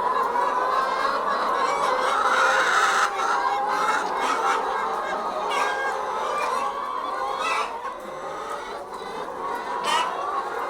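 A large flock of chickens clucking and squawking together in a dense, continuous din, the noisy reaction of the birds to a disturbance in their surroundings.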